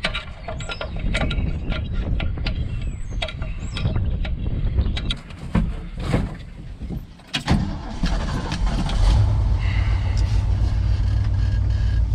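A run of clicks and knocks, then about eight seconds in the 1978 Ford truck's engine starts and settles into a steady idle.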